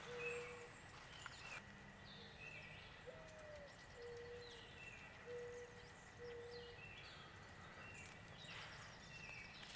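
Birds calling in woodland, quietly: a low cooing note repeated about once a second, one of them rising higher and falling, and short high chirps from a smaller bird.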